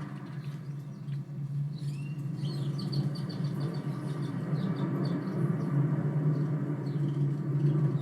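Small birds chirping in a quick run of high chirps starting about two seconds in, over a steady low drone.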